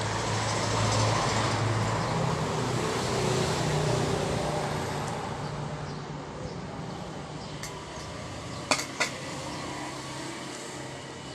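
A road vehicle's engine and tyres pass by, swelling over the first few seconds and then slowly fading. Two sharp clicks come close together about nine seconds in.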